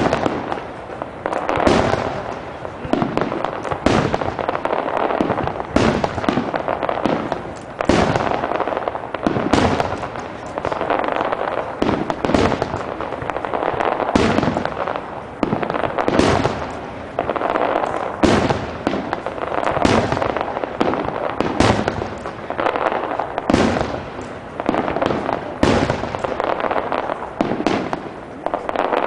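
Fireworks display: aerial shells bursting, a sharp bang every second or two over a continuous din of further bursts.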